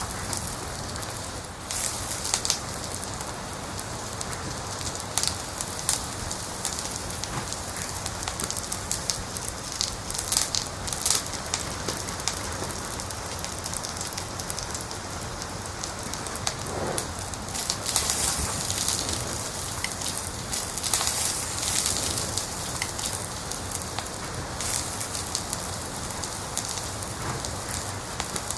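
Wood fire crackling in a fireplace: a steady hiss with irregular sharp pops and snaps, and a few louder clusters of crackles scattered through.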